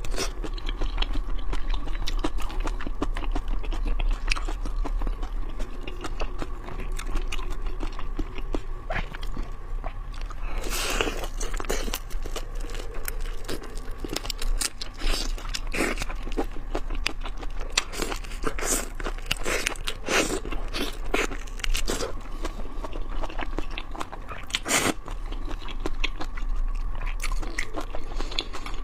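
Close-miked eating of raw seafood: continuous wet chewing and crunching, with a few louder crunches, over a steady low hum.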